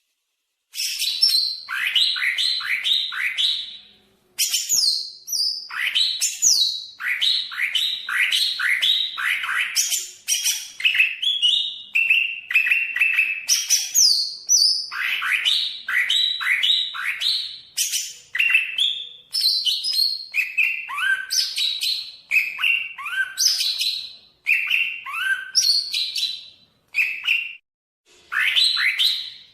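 Cucak ijo (greater green leafbird) singing a long, varied song. It is made of quick runs of downward-slurred notes and higher sweeping whistles, broken by a few short pauses, after about a second of silence.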